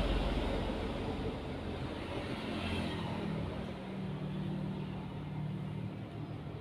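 Engine of a motor vehicle running, a steady hum that gradually fades, its pitch shifting slightly about three and a half seconds in.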